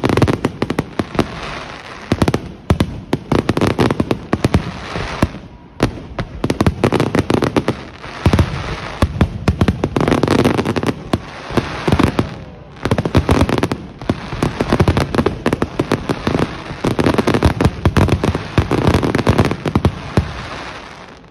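Fireworks display in full swing: rapid, overlapping bangs of bursting shells, broken by a few short lulls.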